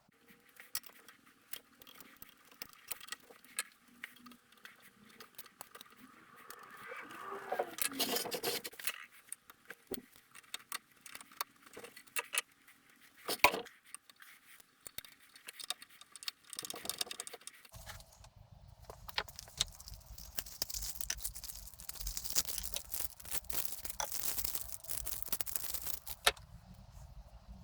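Small metal parts and tools clinking and scraping as drill press parts are handled and fitted, with irregular sharp clicks and one louder clack about halfway through.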